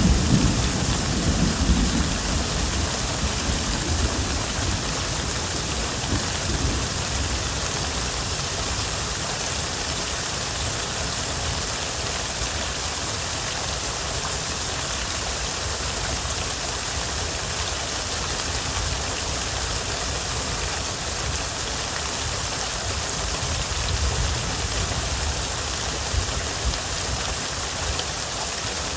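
Steady rain falling, a constant even hiss, with the low rumble of a thunderclap dying away in the first couple of seconds.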